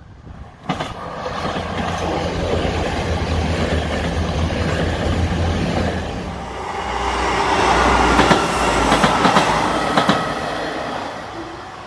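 Diesel passenger trains passing over a level crossing at speed: a steady rush of wheels on rail with a low engine hum. About seven seconds in it swells louder, with a quick run of wheel clicks over the rail joints, then fades away.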